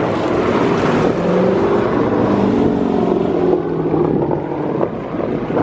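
A Dodge muscle car's engine and exhaust droning with a steady note as it pulls out at low speed, easing off near the end.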